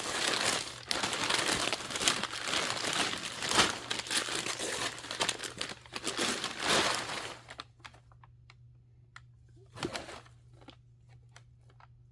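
Wrapping paper being torn and crumpled off a present, a dense crinkling and rustling that stops about seven and a half seconds in, leaving only a few small clicks and a brief rustle.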